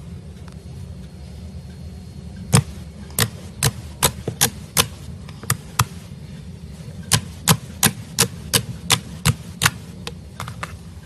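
About eighteen sharp clicks or snaps at uneven spacing, starting a couple of seconds in, over a low steady hum.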